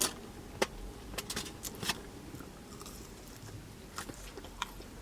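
Close-up eating sounds: someone chewing and biting into jerk chicken and festival, with scattered sharp clicks and crackles, a cluster of them a little over a second in.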